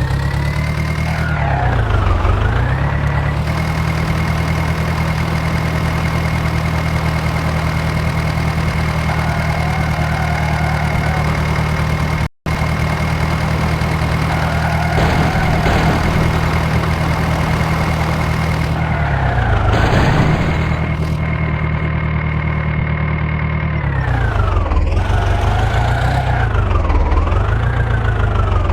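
John Deere 5055 tractor engine revved up and held at high speed, easing back and revving again several times near the end. The sound cuts out for an instant about halfway through.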